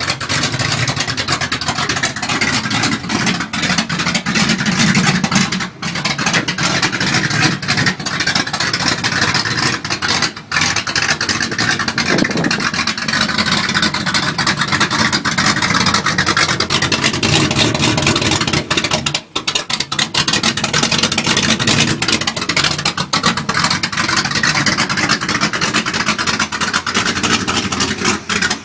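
Freshly rebuilt 350 small-block V8 in a 1993 GMC truck, bored .030 over with new heads and cam, running on its first start with the revs rising and falling.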